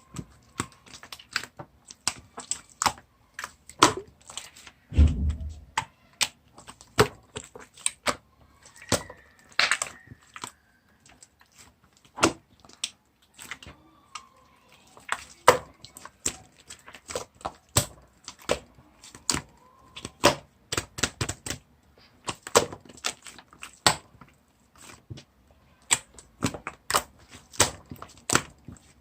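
Slime being pressed and squeezed by hand, giving off irregular sticky clicks and pops several times a second, with one low thump about five seconds in.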